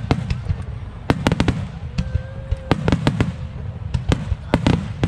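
Aerial fireworks bursting in quick succession: a rapid, irregular string of sharp cracks and bangs, several a second, over a continuous deep rumble of booms.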